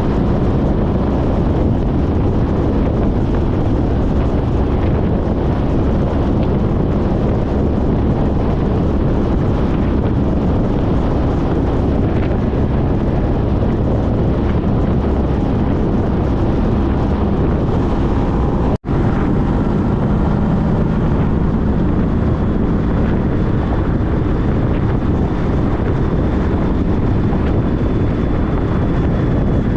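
Wind rushing over the microphone while riding a 2014 Honda CTX1300 at road speed, with the bike's V4 engine running steadily underneath. The sound cuts out for an instant about two-thirds of the way through.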